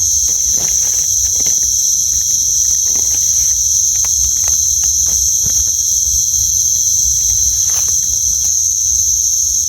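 Steady night chorus of crickets and other insects, a dense high-pitched trilling layered in several bands. Short scattered rustles and clicks of movement through leaf litter come through underneath.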